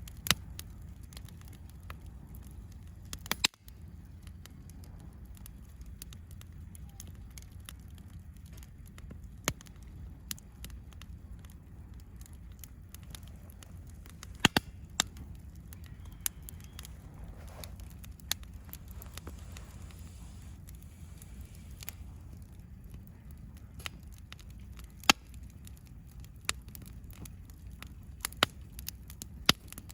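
Wood campfire crackling, with sharp pops at irregular intervals over a low steady rumble.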